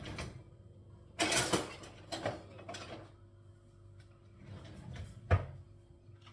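Household handling noises: a loud noisy burst about a second in, smaller scrapes after it, and a sharp knock about five seconds in.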